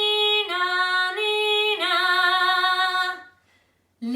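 A woman singing a fire-engine siren imitation, "nee-naw, nee-naw": two held notes alternating high and low, twice over, ending about three seconds in.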